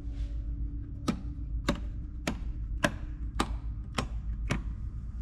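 Sharp mechanical clicks, evenly spaced at a little under two a second, seven in all, over a steady low rumble.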